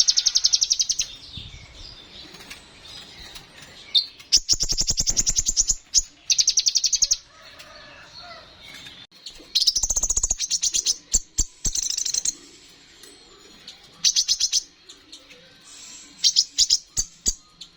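Kolibri ninja (a sunbird) singing: repeated fast, high trills, each about a second long, coming in bursts a few seconds apart.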